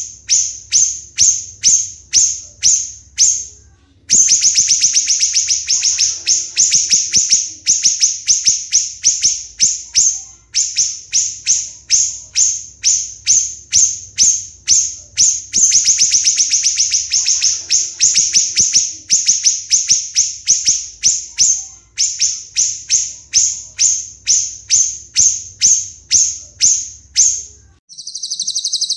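A songbird singing a long run of sharp, repeated chips, about four a second, that twice speed up into fast rattling trills. Near the end the run stops and a brief smoother call follows.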